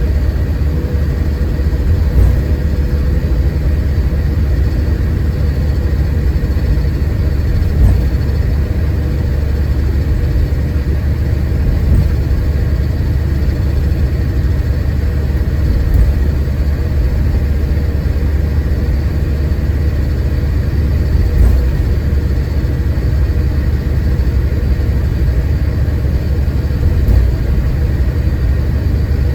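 Onboard ride sound of a Scania K410IB4x2NB coach: a steady low engine and road rumble heard inside the cabin, with a few soft bumps along the way.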